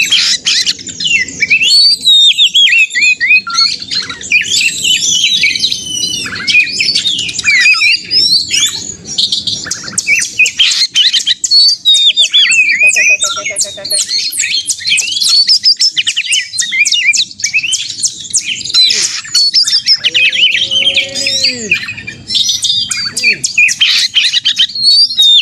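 Oriental magpie-robins (kacer) in full, combative song: a loud, nonstop tangle of fast whistles, chirps and harsh scratchy notes, several phrases overlapping at once.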